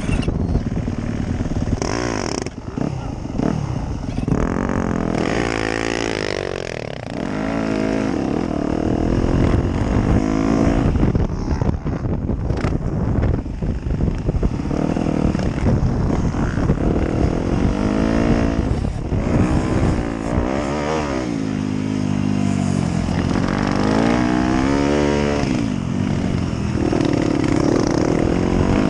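Motocross dirt bike engine being ridden hard, revving up and easing off over and over, with its pitch climbing and dropping several times.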